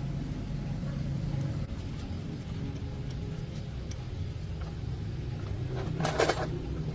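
An engine running steadily at a low, even speed, with a short sharp hiss about six seconds in.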